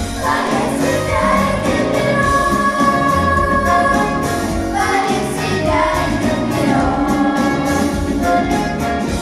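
A song performed live: voices singing long held notes over musical accompaniment with a steady beat.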